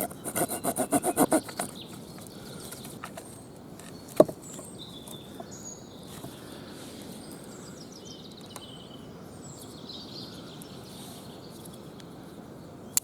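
A quick run of about a dozen rasping strokes on very hard wood, roughly eight a second, then a single sharp knock about four seconds in. Small birds chirp through the rest.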